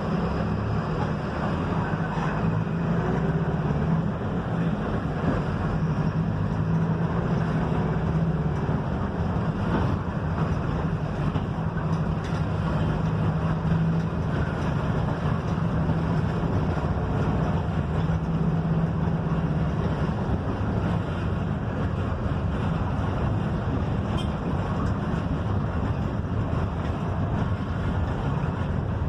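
Mercedes-Benz OF-1721 bus's diesel engine running steadily with the bus under way, over a constant haze of road and tyre noise.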